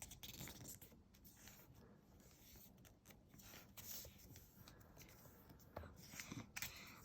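Faint rustling and scraping of a sheet of coloured origami paper being folded and creased by hand, with a few small crinkles.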